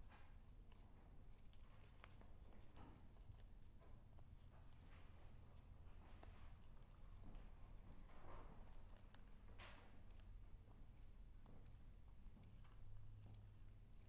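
A cricket chirping faintly: short high chirps repeating steadily, a little more than once a second.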